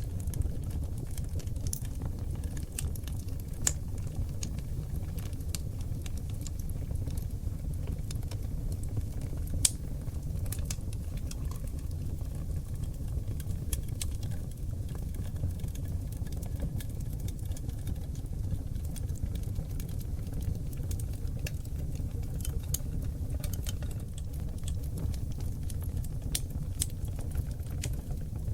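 Oak logs burning in a wood fireplace: a steady low rumble of flames dotted with frequent small crackles and pops, with two sharper pops about 4 and 10 seconds in.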